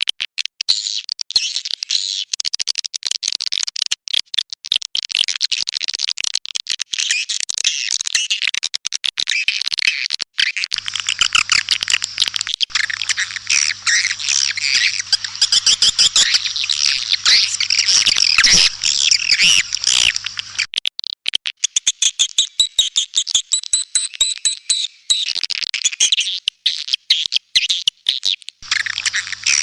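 Dense, rapid twittering and chirping of many swiftlets: a swiftlet call track of the kind played to lure the birds into nesting houses. A faint low hum sits under the calls for about ten seconds in the middle.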